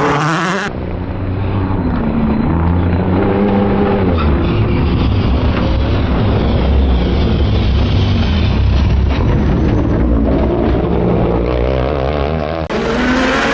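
Rally car engine revving hard, its pitch climbing and dropping repeatedly through the gears as the car drives a stage. The sound changes abruptly about a second in and again near the end as one recording gives way to another.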